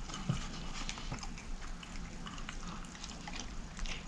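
A person chewing fried food close to the microphone, with scattered small crunchy clicks and mouth sounds.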